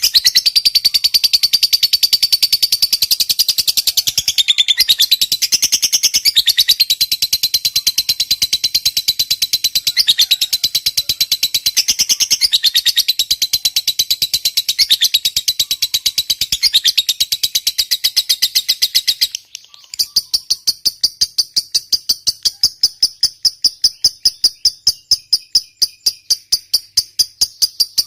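Lovebird chattering in a long, rapid, unbroken trill: the 'ngekek panjang' call of a singing fighter lovebird. About two-thirds of the way in it breaks off, and a different chirping follows, evenly pulsed at about five or six chirps a second.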